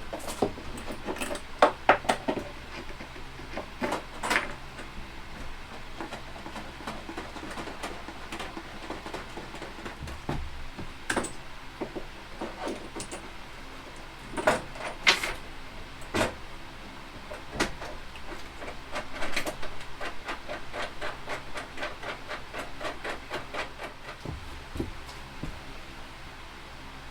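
Knocks, clunks and clicks of an over-the-range microwave being hoisted onto its wall mounting plate and fastened up to the cupboard above. There are scattered sharp knocks throughout, with a quick run of small ticks a little past the middle.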